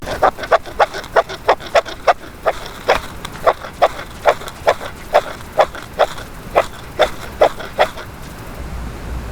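Wood being struck over and over: a quick, steady run of sharp, woody knocks, about two to three a second, that stops about eight seconds in. This fits firewood being chopped or split.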